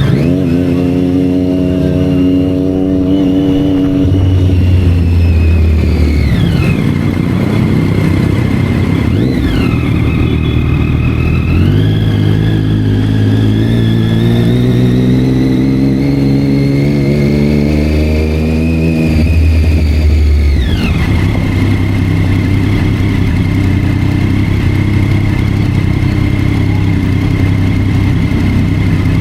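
Sport motorcycle engines revving hard, the pitch climbing and dropping repeatedly. The high-revving note falls away a few times and then settles into a steadier running sound for the last third.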